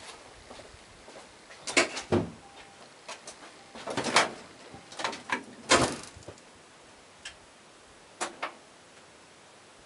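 A scattered series of sharp knocks and clunks, about seven in all and irregular, with no engine running.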